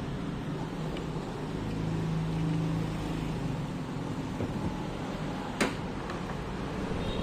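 Steady background traffic noise with an engine hum, and one sharp click about five and a half seconds in.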